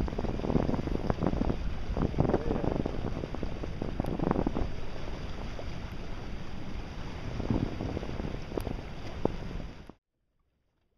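Wind buffeting the microphone over rushing water, with irregular low thumps, aboard a sailing boat; it cuts off suddenly near the end.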